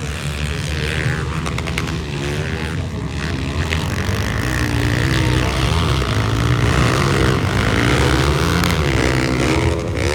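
Motocross bike engine revving hard, its pitch rising and falling over and over as the throttle opens and closes.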